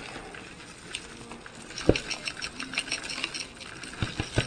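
Birdseed pattering and rattling as it is poured through a funnel into a bird feeder, with a few sharp knocks about two seconds in and again near the end.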